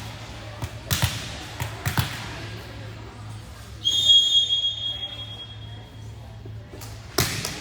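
A volleyball is struck twice, about a second apart, then a referee's whistle blows one steady, high blast of about a second and a half. Another sharp ball hit comes near the end.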